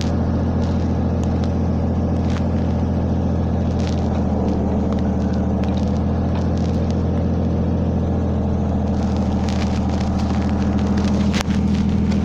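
Mercedes-Benz 1313 truck's diesel engine running at a steady speed while it powers the 8-tonne knuckle-boom crane. The engine note firms up about four seconds in and grows louder near the end, with a few light knocks and clicks over it.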